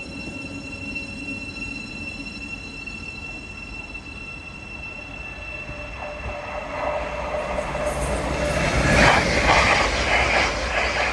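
Hull Trains Class 802 "Paragon" express passing through the station at speed. The rush of wheels on rail builds from about halfway in and is loudest near the end, with rattling wheel-on-rail clatter.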